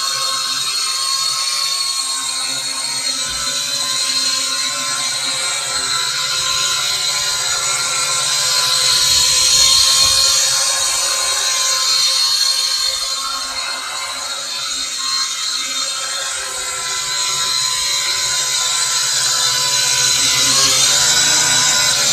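Small toy quadcopter's motors and propellers whining in flight, a steady high-pitched buzz that swells and eases slightly in level.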